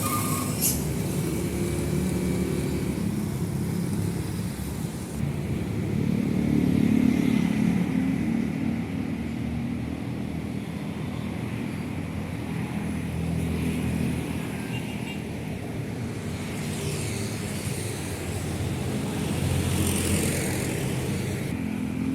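Heavy road traffic: diesel trucks and buses passing one after another, with low engine drone and tyre noise. The sound swells as the nearest vehicles go by, about seven seconds in and again near the end.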